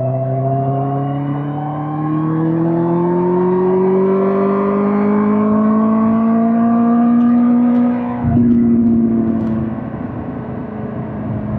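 Suzuki GSX-R1000 K5's inline-four engine pulling under way, its pitch climbing steadily for about eight seconds. Then the sound changes abruptly, with a low rumble and the pitch dipping slightly before running on.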